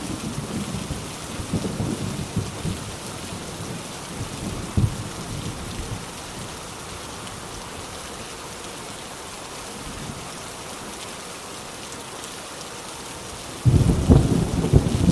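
Heavy rain drumming steadily on a rusty tin roof, with rolling thunder. The thunder rumbles and dies away over the first six seconds or so, and a new loud thunderclap breaks suddenly near the end.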